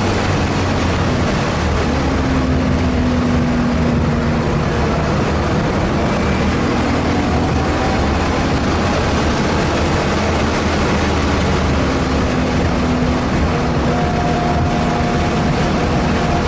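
Car engine running under load at track speed, heard from inside the cabin, with steady wind and road noise; the engine note shifts now and then as the driver works the throttle.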